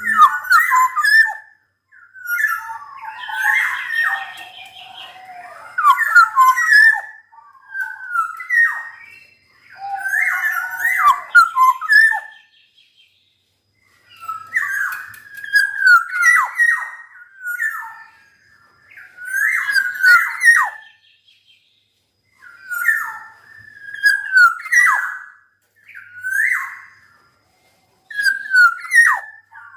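Black-naped oriole (kepodang) singing hard: loud, fluid whistled phrases with sharp downward slurs, nearly continuous for the first dozen seconds, then coming as separate phrases every two to three seconds.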